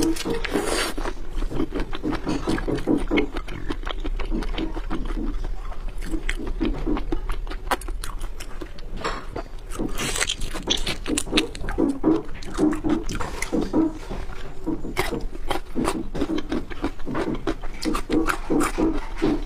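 Close-miked chewing of seafood: a steady rhythm of wet chews with sharp lip smacks and mouth clicks throughout.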